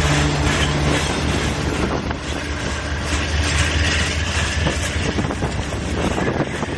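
Freight train passing: a diesel locomotive's engine drone that fades about five seconds in, with rail car wheels clicking over the track joints throughout.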